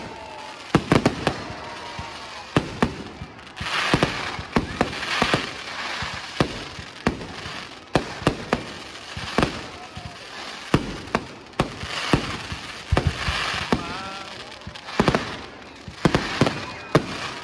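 Fireworks display: a rapid, irregular series of sharp bangs from bursting shells, with several spells of dense crackling.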